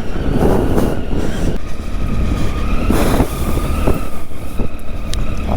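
Triumph Tiger 800's three-cylinder engine running steadily on a trail ride, with a low rumble. Two louder rushes of noise come about half a second and three seconds in.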